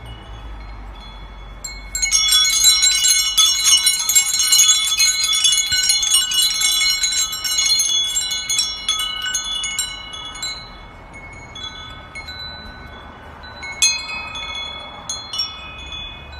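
Metal wind chimes jangling: a dense flurry of overlapping ringing strikes for several seconds, thinning out to a few separate strikes near the end.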